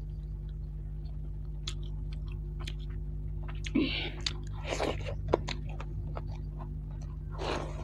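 A person chewing a mouthful of fried fish and rice close to the microphone, with many small wet clicks and smacks. A few brief rustling bursts come about four and five seconds in and again near the end, over a steady low hum.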